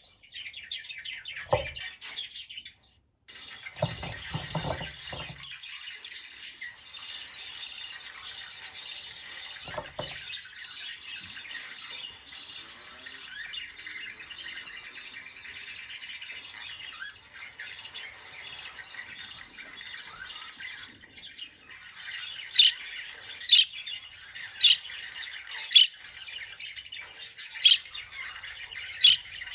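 Budgerigar chattering and warbling, with a few soft thumps in the first seconds. Near the end come about six loud, sharp calls, roughly a second apart.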